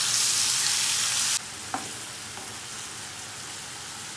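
Marinated chicken pieces sizzling in hot oil in a nonstick frying pan while being stirred with a wooden spatula. The sizzle is loud for about the first second and a half, then drops suddenly to a softer steady sizzle. A faint click of the spatula comes about halfway through.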